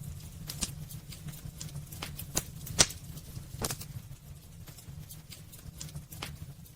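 Wood fire crackling in a fireplace: irregular sharp pops and snaps over a low, steady rumble of burning. The loudest pop comes a little under three seconds in, and the pops thin out for a couple of seconds after the middle.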